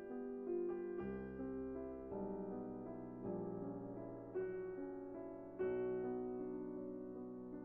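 Background piano music, soft keyboard chords and melody notes struck about once a second over a sustained bass.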